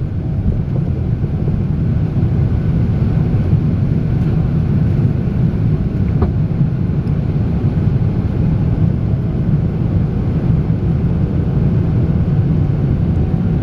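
Jet airliner taking off, a steady low rumble of engine and airflow noise with no change in pitch.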